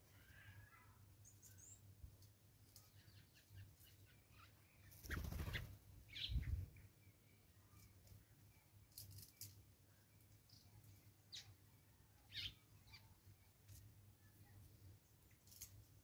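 Quiet woodland ambience: faint, scattered, short high bird chirps, with a brief rush of noise and a low thump about five seconds in.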